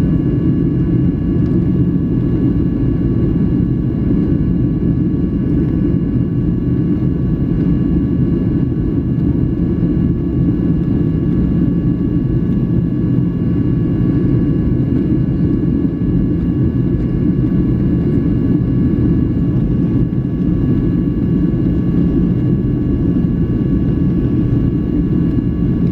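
Steady cabin noise inside a Boeing 737-800 in flight: a low rumble of airflow and engines, with several faint, steady whining tones above it.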